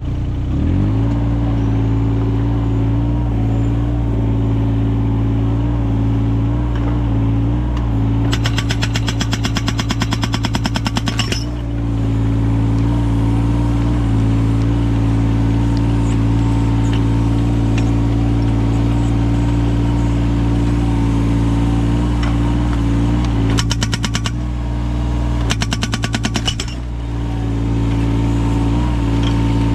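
Yanmar 017 mini excavator's diesel engine running steadily, with its hydraulic breaker fitted with an axe-shaped chisel hammering in rapid strokes while splitting firewood: one burst of about three seconds a third of the way in, then two short bursts near the end.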